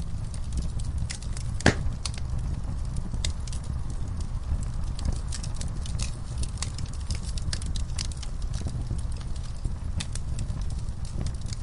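Wood bonfire crackling: a steady low rumble of burning with frequent sharp pops and snaps, and one louder pop about two seconds in.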